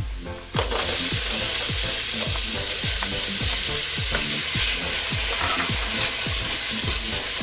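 Green lima beans dropped into a pot of hot oil, setting off a loud sizzle about half a second in that keeps frying steadily as they are stirred with a spatula.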